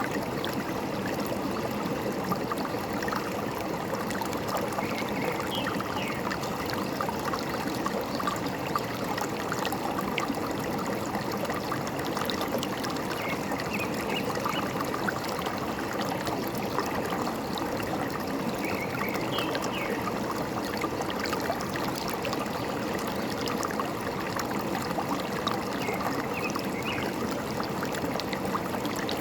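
Forest stream flowing steadily, with faint short bird chirps every few seconds.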